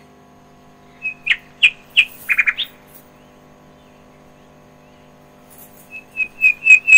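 Small songbird chirping: a short cluster of high chirps about a second in, then a quick run of repeated chirps, about three a second, near the end, over a faint steady hum.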